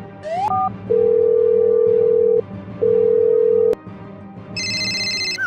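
Cartoon sound effects over background music: a short rising whistle, then two long steady beeps like a telephone tone, then a high, rapidly pulsing ringing near the end.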